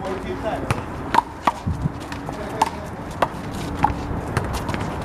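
Big blue rubber handball being struck by hand and smacking off the wall and court during a rally: a string of sharp smacks, several a second apart at uneven intervals.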